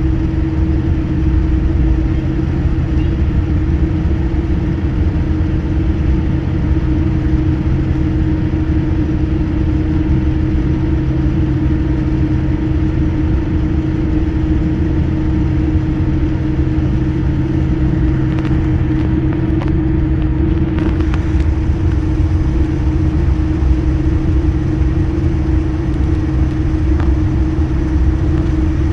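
Aircraft engines running with a steady deep drone and a constant hum, before takeoff.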